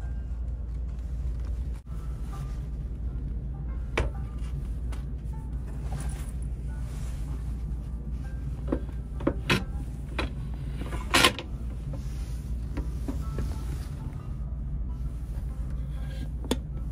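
Steady low rumble of a KTX high-speed train running, heard inside the carriage, with scattered knocks and clicks; the loudest is a short clatter about eleven seconds in.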